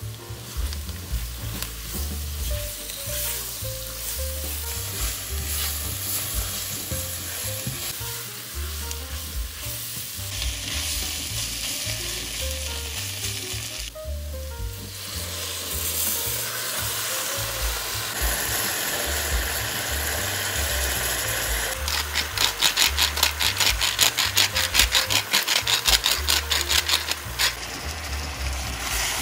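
Chopped vegetables sizzling in a nonstick pot while a silicone spatula stirs tomato paste through them. About 22 seconds in, the stirring turns into a louder run of quick, even strokes for about five seconds.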